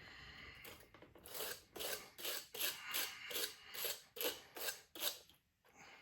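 Ratchet wrench worked back and forth in quick, even strokes, about three a second, clicking as it turns a battery terminal bolt on a Suzuki Eiger 400 ATV.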